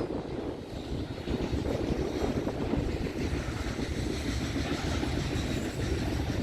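Freight train rolling past: a steady rumble of wheels on rail.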